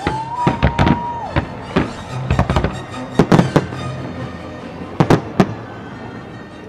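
Fireworks shells bursting in sharp cracks, a dozen or so in quick clusters, over music played for a pyromusical display.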